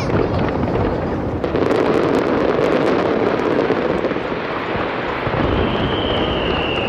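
Fireworks bursting over the sea: a dense, continuous rumble of shell bursts with crackling, and a high whistle that falls slightly near the end.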